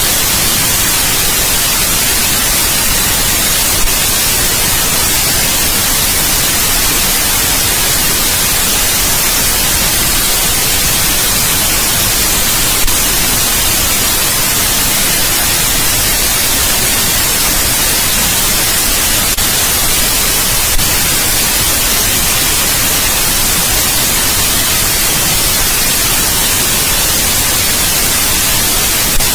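Steady white noise: an even, unbroken hiss, brighter toward the high end, with a faint tick about every eight seconds.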